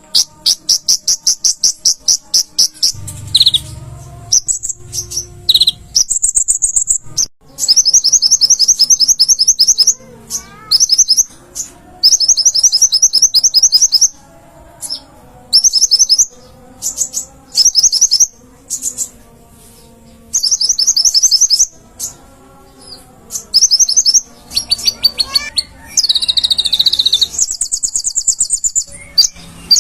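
A kolibri ninja (purple-throated sunbird) singing hard: high, very rapid trills in bursts of one to two seconds, repeated over and over with short gaps, with a few quick sweeping notes in between.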